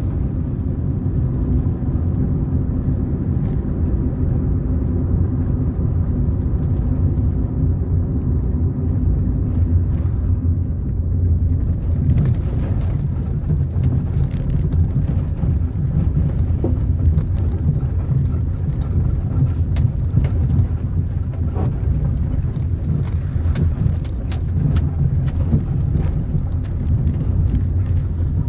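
A car driving along a road: a steady low rumble of engine and tyre noise, with occasional light clicks and knocks in the second half.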